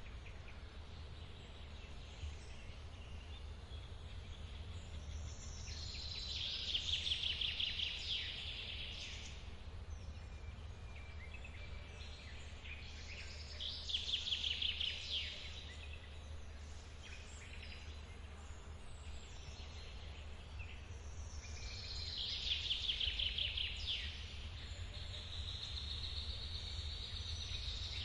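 A forest waterfall gives a steady low rush of running water. Over it a songbird sings short phrases of fast repeated high notes several times, roughly every eight seconds.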